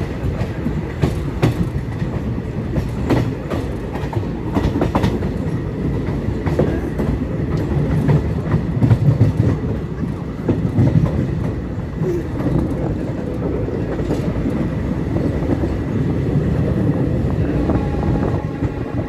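A moving passenger train running along the track: a steady rumble with sharp clicks of the wheels over rail joints, which are most frequent in the first several seconds. A few faint steady tones come in near the end.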